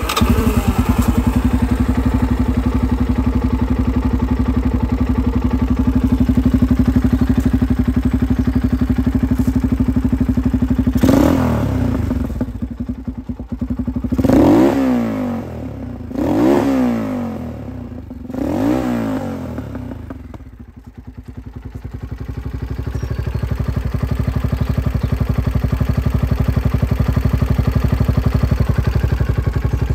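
Gilera Saturno 350's single-cylinder four-stroke engine idling steadily. Partway through, the throttle is blipped four times in quick revs. After the last rev the idle sags low for a moment, then settles back to a steady idle.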